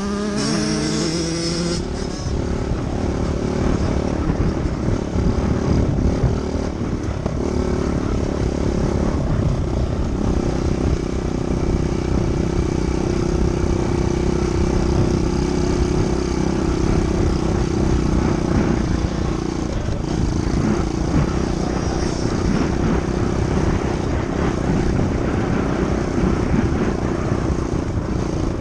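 Dirt bike engine running steadily while being ridden. Its pitch settles into a held drone about a third of the way through.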